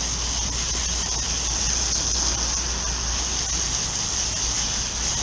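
Water from a garden hose spraying onto a dirty refrigeration condenser coil, rinsing off the heavy dirt: a steady hiss of spray over a low steady hum.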